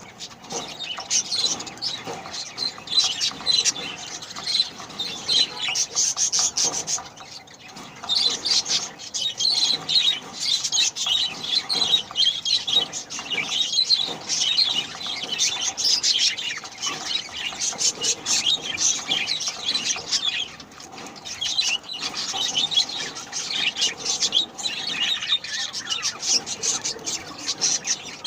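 Budgerigar chicks giving rapid, raspy begging chirps, non-stop, as the mother budgie feeds them.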